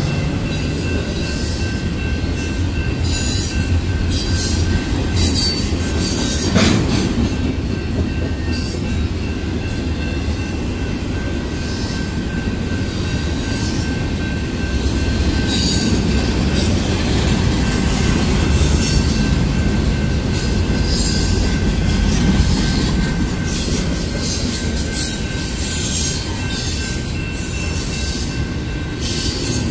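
Union Pacific double-stack intermodal train's well cars rolling steadily past: a continuous low rumble of wheels on rail, with a faint steady high wheel squeal and scattered clicks and clanks. One sharper clank comes about six and a half seconds in.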